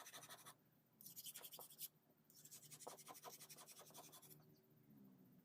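Faint, rapid scraping strokes in three runs with short pauses between them, like hand sanding or filing during knife making.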